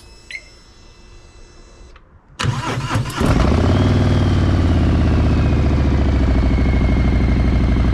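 Harley-Davidson V-twin motorcycle engine cranked on its electric starter about two and a half seconds in, catching within a second and settling into a loud, steady idle.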